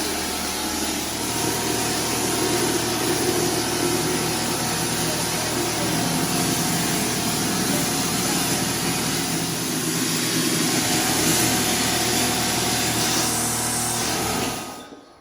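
A motor-driven machine running steadily with a loud rushing hiss and a low hum, cutting off near the end.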